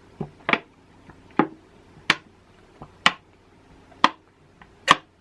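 A series of sharp clicks, six of them about a second apart, close to the microphone in a small room.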